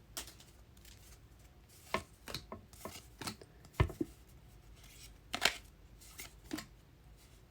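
Trading cards being handled and flipped through by hand: scattered soft slides and taps, the loudest a little before four seconds in and again about five and a half seconds in.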